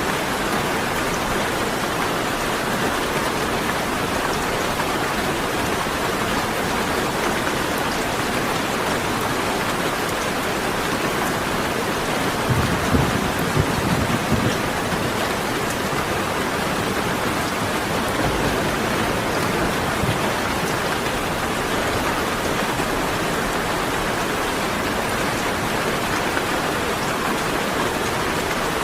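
Rain falling steadily, with a brief low rumble of thunder about halfway through.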